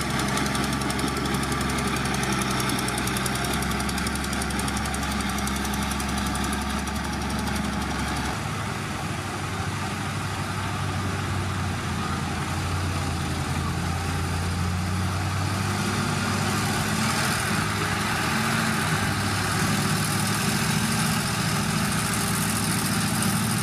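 Diesel engine of heavy earthmoving machinery running steadily, its note changing about eight seconds in.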